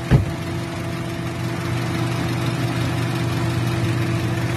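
Daihatsu Sirion engine idling steadily while a newly fitted radiator cap is checked for leaking coolant. A single sharp knock comes just after the start.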